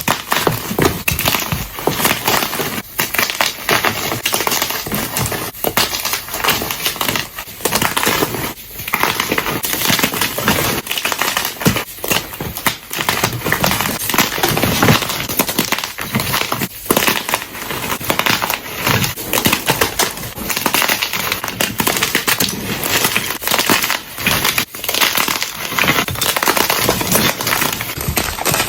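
Blocks of gym chalk being crushed, a dense, continuous run of crunching and crumbling with many quick cracks as the soft blocks break apart into powder.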